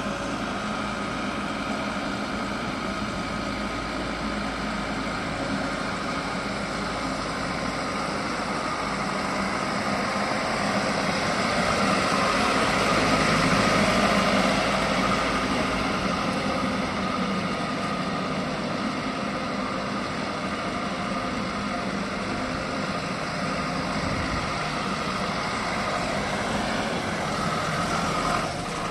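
Shanmon 388 backhoe loader's diesel engine running steadily, growing louder about halfway through, then settling back.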